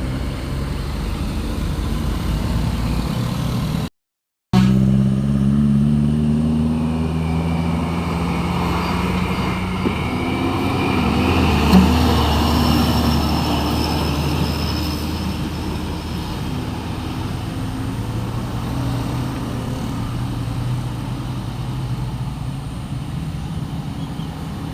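Heavy diesel truck engine running as it passes by, its engine note sliding slowly down in pitch and swelling louder near the middle. The sound cuts out completely for about half a second around four seconds in.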